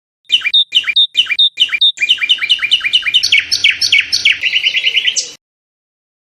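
A songbird singing one phrase: five separate repeated notes, then a quicker run of notes that speeds up into a rapid trill near the end and stops abruptly.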